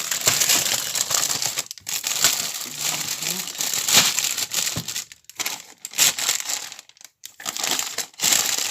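Plastic food packaging crinkling and rustling as it is handled, with a few short pauses in the second half.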